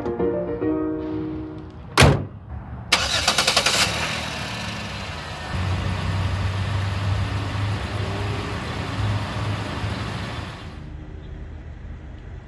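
A Chevy minivan's hood slams shut about two seconds in, then the engine cranks and catches about a second later and runs at idle. This is the first start after the idle air control valve, which the code reader had flagged as stuck open, was refitted. The running sound drops away near the end.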